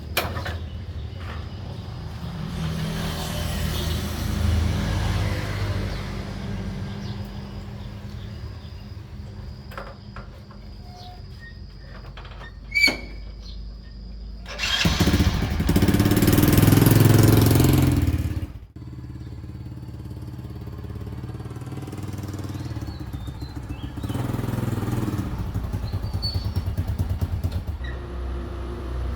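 A small engine running steadily, with a sharp click about halfway through, then a louder, noisier surge for about three seconds that cuts off abruptly.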